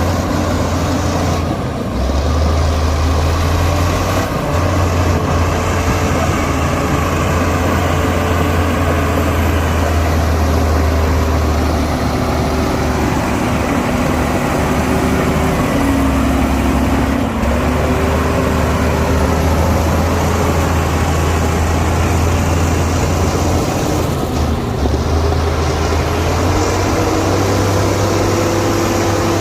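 Heavy diesel earthmoving machinery running loud and steady, with a deep drone and a few higher tones that drift up and down in pitch.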